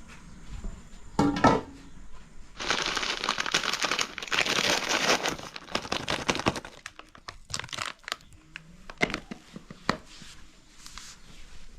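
Crinkling and rustling of something being handled for several seconds, followed by scattered sharp clicks and snaps.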